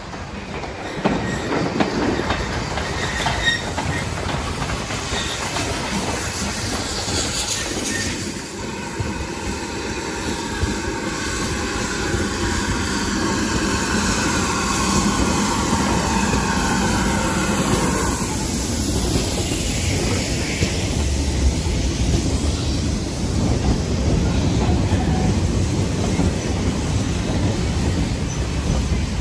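Train hauled by a GWR small prairie steam tank engine, rumbling along the rails with a goods brake van. Its wheels squeal at a high pitch for about ten seconds in the middle, slowly falling a little, then the squeal cuts off suddenly.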